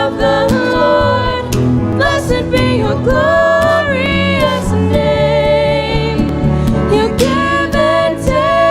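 Live worship music: singers holding and bending sung notes over instrumental accompaniment in a contemporary praise song.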